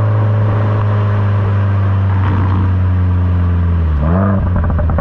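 Subaru WRX turbocharged flat-four running through a Borla S-Type exhaust, holding a steady note. About four seconds in there is a quick rev blip that rises and falls, typical of a rev-matched downshift, followed by a quick run of exhaust crackles on the overrun.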